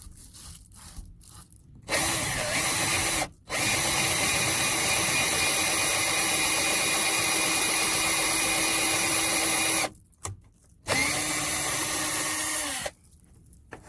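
Power drill boring a hole, running steadily in three goes: a short one about two seconds in, a long run of about six seconds, then a shorter one near the end.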